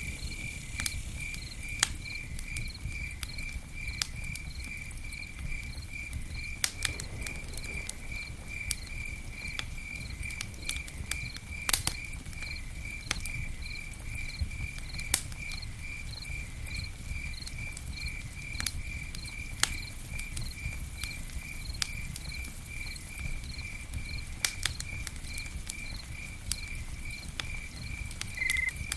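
Campfire burning, with sharp crackles and pops scattered over a steady low rumble, while a cricket chirps evenly about twice a second throughout.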